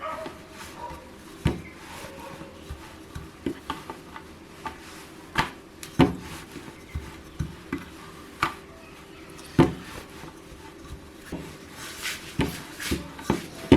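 Irregular wooden knocks and taps of a rolling pin and board as flatbread dough is rolled out, with a busier run of knocks near the end.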